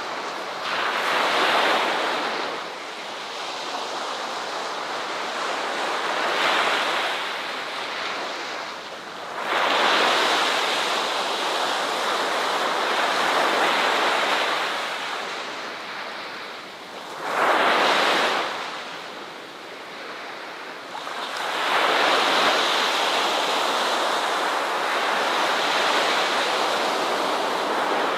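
Ocean waves breaking on a shore in slow surges, each one swelling into a rush of surf and then washing back. A sharp, short surge comes about 17 seconds in, and a long one follows from about 21 seconds.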